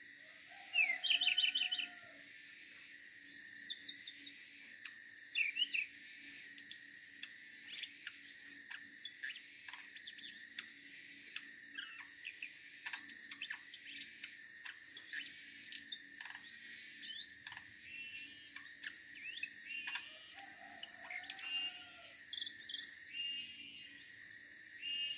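Siberian blue robin singing: many short high chirps and quick rattling trills, repeated throughout, over a faint low hum.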